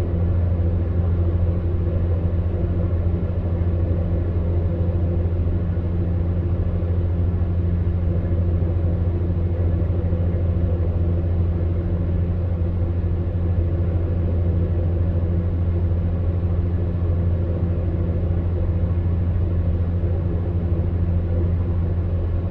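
Electric fan heater running steadily: a constant low hum with a few steady motor tones over an even whoosh of blown air.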